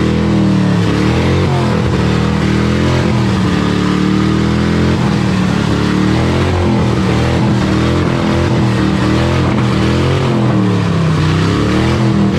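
Ford Crown Victoria's V8 engine running loudly, its revs rising and falling repeatedly every second or two.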